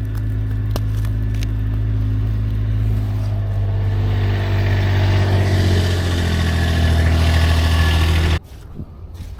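A motor vehicle's engine running close by, a steady low hum that grows louder, then stops abruptly near the end.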